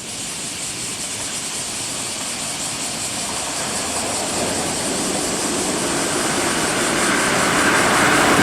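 Keihan 3000 series electric train approaching on a high-speed pass, a rushing rail noise growing steadily louder.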